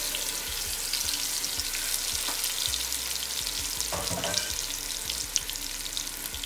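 Chicken pieces sizzling and crackling in hot oil with garlic in a frying pan, a steady hiss dotted with fine pops.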